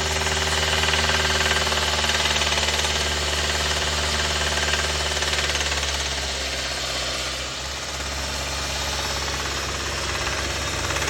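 2014 Hyundai Sonata's GDI four-cylinder engine running steadily with a knocking and rattling noise. The owner links the noise to code P1326 (knock sensor performance) and fears the engine is about to fail.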